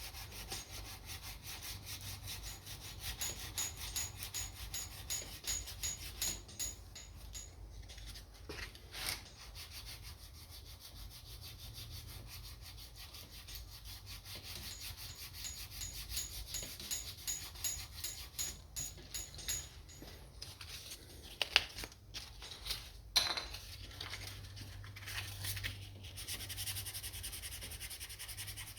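Sandpaper rubbing on the guitar's wood and finish in quick, even back-and-forth strokes, with two sharp knocks about three quarters of the way through.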